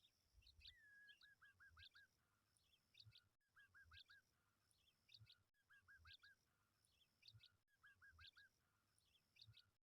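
Faint bird chirps with a run of four or five quick repeated notes, the same short stretch repeating about every two seconds like a looped recording.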